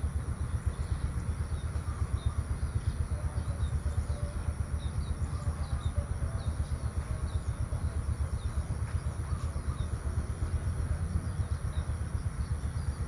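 Outdoor rural morning ambience: a steady low rumble underneath a constant high-pitched whine. In the middle, a bird calls in a run of short, falling chirps, two or three a second.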